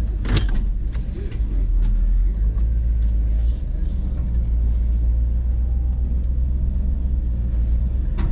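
Off-road vehicle engine running steadily at low revs, a deep steady rumble, with a few faint knocks.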